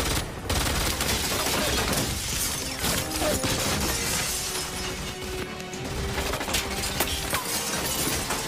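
Glass shattering and debris crashing under dramatic action music in a film soundtrack.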